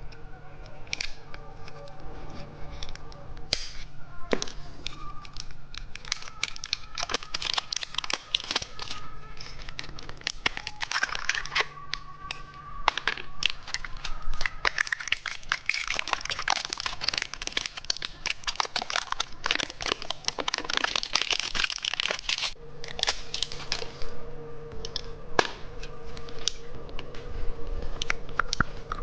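Plastic candy wrapping crinkling and crackling as it is handled and torn open, with a dense run of crackles through the middle.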